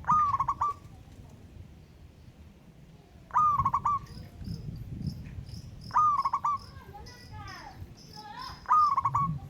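Zebra dove (perkutut) cooing: four matching phrases about three seconds apart, each a rising note that breaks into a quick rattling trill. Faint, high, repeated chirping runs behind the last three phrases.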